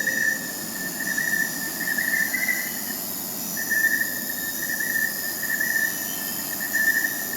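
Night-time crickets chirping: a steady, high pulsing trill that breaks off briefly about three seconds in, over fainter, higher insect tones.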